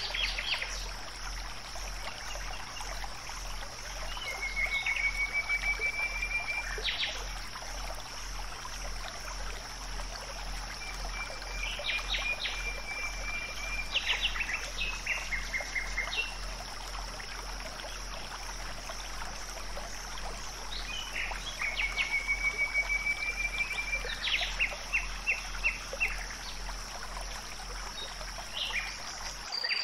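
Nature ambience of birds calling in short rapid trills and chirps, coming in three bouts several seconds apart, over a steady high-pitched drone.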